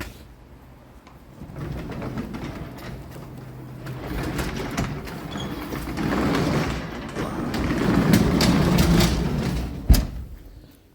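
Car engine and tyre noise as the car drives through snow, swelling twice. There is a sharp knock near the end, and then the sound dies away.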